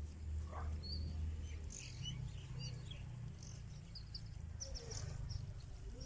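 Scattered short, faint bird chirps over a steady low rumble.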